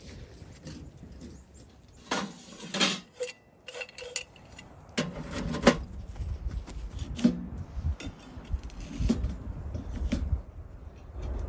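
Irregular knocks, rustles and a few brief metallic clinks of objects being handled.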